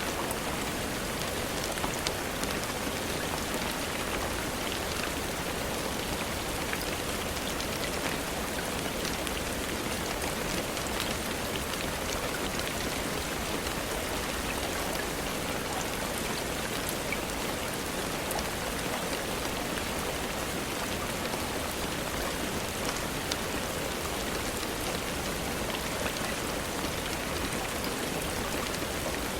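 Steady rain falling, a dense even hiss with countless small drop ticks.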